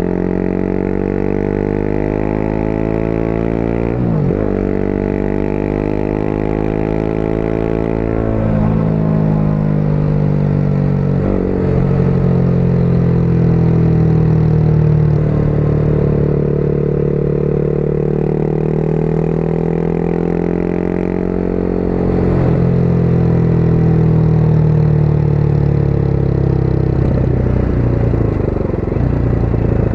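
Motorcycle engine pulling along the road, its pitch climbing steadily and then dropping back at several gear changes, a few seconds apart, before easing off near the end.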